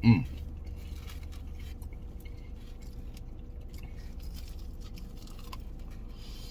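A brief exclamation falling in pitch at the very start, as if at hot food, then faint crunching clicks of someone chewing crispy fried chicken wings over a low steady hum.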